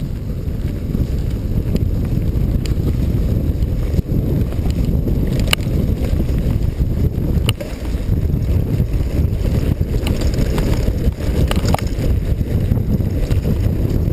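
Wind buffeting a GoPro microphone while riding a mountain bike down a trail, a loud steady low rumble, with the bike clicking and knocking now and then over rough ground.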